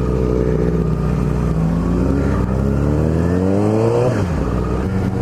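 600cc inline-four sport bike engine under way: it runs steadily, then revs up with rising pitch as it accelerates through a gear. About four seconds in the pitch drops sharply at an upshift.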